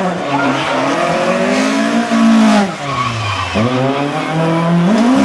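Hillclimb race car engine running hard, the revs climbing to a peak about two seconds in, dropping away a second later, then climbing again near the end as the car accelerates and brakes between corners, with tyre squeal.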